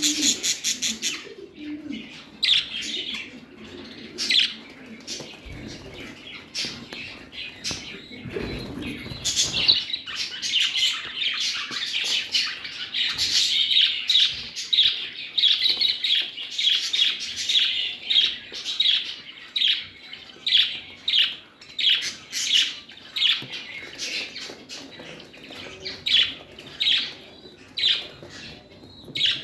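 Pet parrots chirping: a steady stream of short, high chirps repeated several times a second, thickest in the middle stretch.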